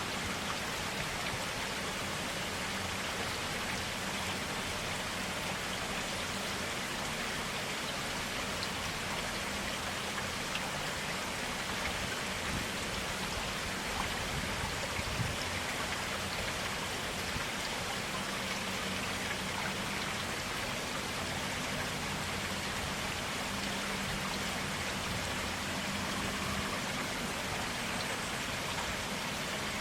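A forest stream flowing steadily, an even rush of water, with a couple of faint ticks about halfway through.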